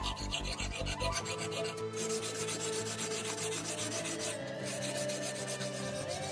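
Abrasive paper rubbed by hand in quick back-and-forth strokes over a steel axe head, sanding off rust. Background music plays underneath.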